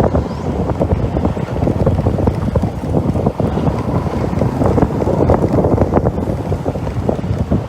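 Strong wind buffeting the microphone: a loud, steady rumble with irregular flutter.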